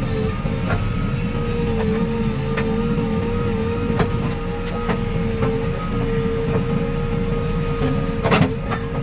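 Diesel engine of a JCB 3DX backhoe loader running steadily under load, with a steady whine over the rumble and scattered metallic clanks and knocks, one louder knock near the end.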